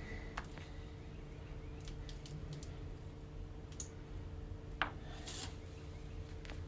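A few light clicks and short rubbing scrapes of small objects being handled, the sharpest click about five seconds in followed by a brief scrape, over a low steady hum.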